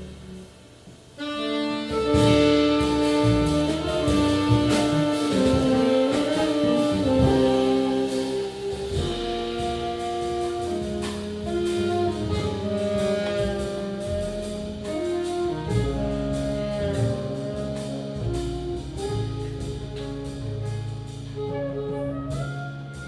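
Small jazz band playing live. The music drops almost to nothing for about the first second, then the band comes back in together, with held saxophone lines over the rhythm section.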